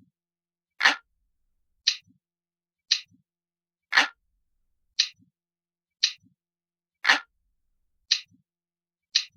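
Looped recording of an analog clock ticking about once a second, with every third tick longer and fuller than the two between.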